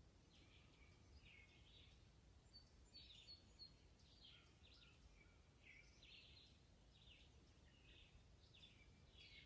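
Near silence with faint distant birdsong: short high chirps, about two a second, over a low background rumble.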